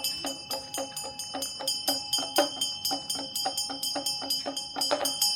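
A bell struck rapidly and evenly, about five strokes a second, ringing on steadily between strokes.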